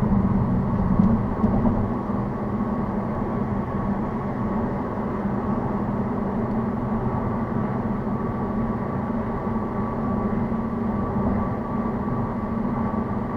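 Steady road and engine noise of a car driving at speed, a low drone with a faint steady whine above it.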